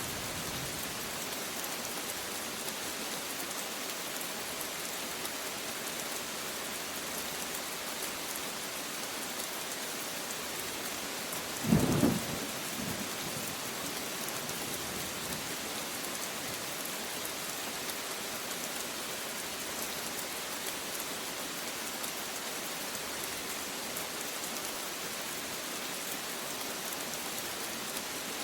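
Steady, even rain falling, with one short, sharp clap of thunder about twelve seconds in that is the loudest moment.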